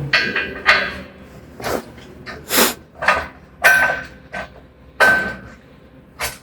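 Irregular metal clanks and knocks, about nine in all, some with a short ring, as steel parts of a portable sawmill bed are handled and fitted together.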